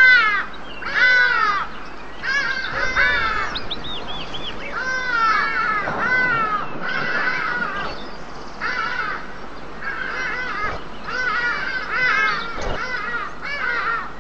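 Birds calling over and over: a steady stream of short calls that drop in pitch, several birds overlapping.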